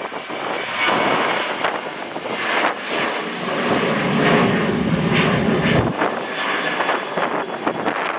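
An airliner's engines as the plane passes close by, the noise swelling and then easing off, with wind buffeting the microphone.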